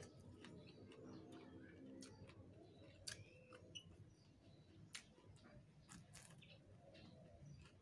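Quiet eating sounds: faint chewing with a few sharp clicks, as rice, raw greens and salted fish are eaten by hand.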